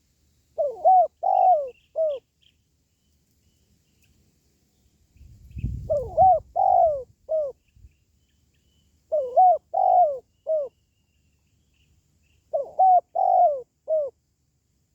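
Spotted dove cooing: four phrases of three or four short, arched coos each, spaced a few seconds apart, with a brief low rumble just before the second phrase.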